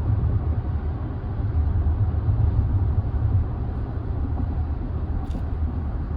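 Hyundai Ioniq 9 electric SUV cruising at highway speed, heard from inside the cabin: a steady low rumble of tyre and road noise, with no engine note.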